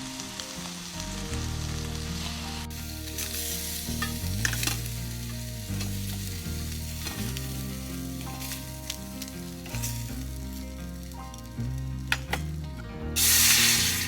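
Food sizzling and frying in a pan, with a steady crackle and a louder surge of sizzling near the end.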